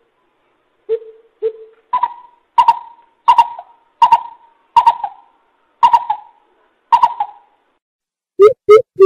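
Greater coucal calling: two low hoots, then a run of about seven hoots, each trailing off, and a few louder low hoots near the end.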